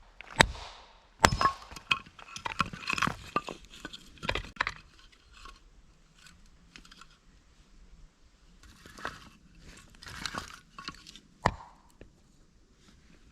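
Handling noises: a few sharp knocks, then a run of crunches and small clinks that thins out to scattered clicks, with one more sharp knock near the end.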